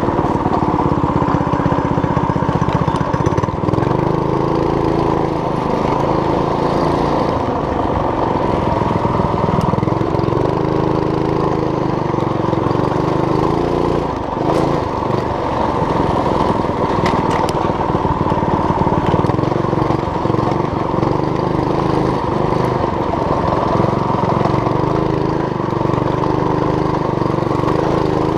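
Homemade mini bike's small engine running while ridden, its pitch rising and falling repeatedly as the throttle opens and closes, with a brief easing off about halfway.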